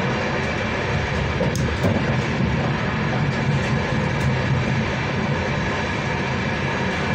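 Passenger train running along the line, heard from inside the carriage: a steady rumble of wheels on the rails, with a few faint clicks.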